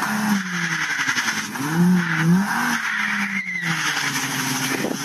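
Car engines revving up and down under load, with tyres spinning in snow, as one car tows another out of a snowy ditch.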